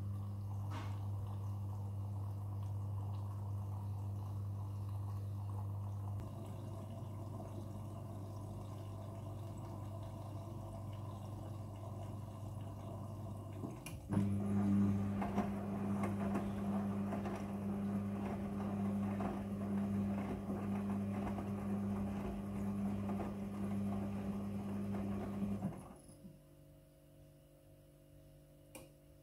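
Midea front-loading washing machine filling with water: the inlet valve hums steadily as water runs in. About halfway, the hum changes and the rush of water through the detergent drawer gets louder. Both stop suddenly near the end when the fill shuts off.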